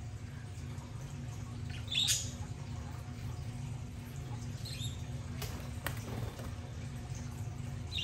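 A bird giving a few short, high chirps, the loudest about two seconds in, over a steady low hum.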